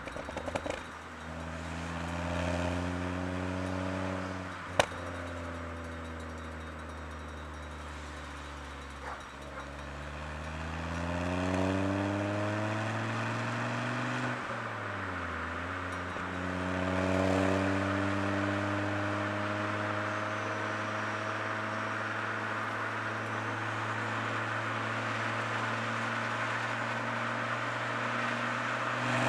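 Ford Focus ST engine and Milltek resonated exhaust pulling at low revs on a light throttle. The pitch eases down, climbs again, dips briefly about halfway through, then holds steady. One sharp click about five seconds in.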